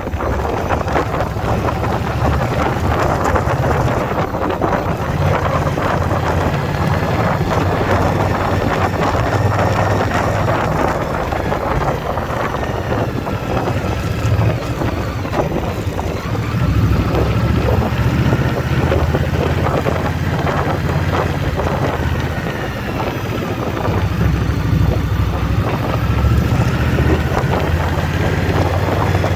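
2021 Indian Scout Bobber Twenty's V-twin engine running under way, with wind buffeting the microphone. The engine's low rumble eases off briefly a few times.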